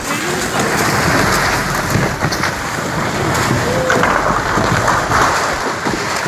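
Floodwater rushing in a loud, steady torrent, a dense hiss and roar that starts and stops abruptly.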